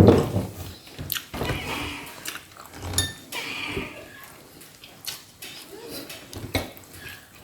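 A person eating roast chicken: chewing, with irregular clicks and clinks of dishes and cutlery.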